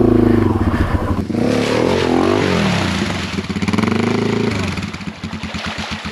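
Yamaha TW200's single-cylinder engine revving hard, its pitch climbing and falling several times, then easing off near the end.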